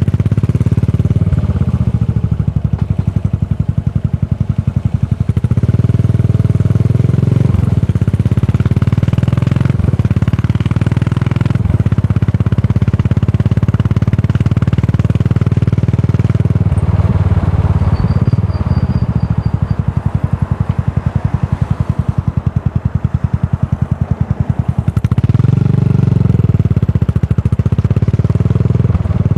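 Yamaha SR400's air-cooled single-cylinder engine running through a Goods tapered cone slip-on muffler while riding, a dense train of exhaust pulses. It eases off the throttle twice and pulls up through the revs again, about six seconds in and near the end.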